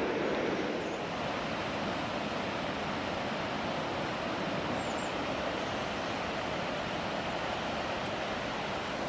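River water rushing steadily through a gorge, an even, unbroken noise, with a few faint high chirps above it.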